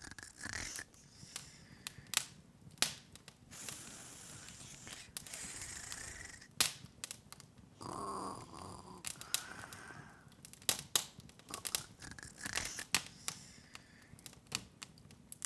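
Open wood fire crackling: irregular sharp pops and snaps over a soft hiss, with a brief louder fluttering hiss about halfway through.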